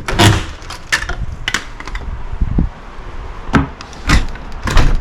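Footsteps knocking on a hard floor: a few steps, a pause, then a few more.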